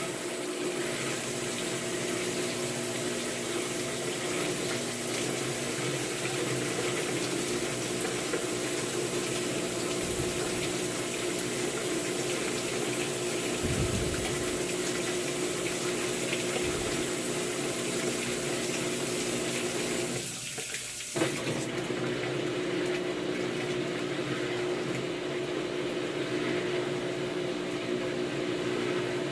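Maytag MVWC465HWO top-load washer in its rinse cycle: water rushing into the tub over a steady machine hum. About 21 seconds in, the rushing water stops and the hum carries on.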